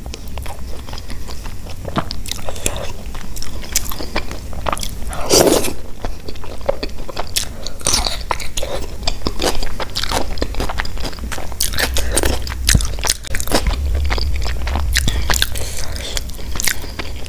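Close-miked chewing of crisp fried kachori and paratha: wet mouth sounds with many sharp crunches and crackles, on and off throughout.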